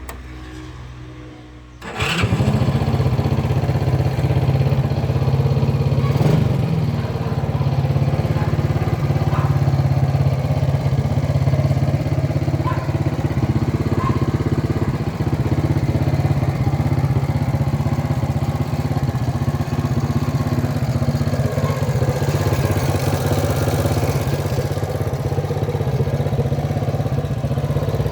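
Honda engine fitted in an Ariel Leader motorcycle catches about two seconds in, then runs steadily.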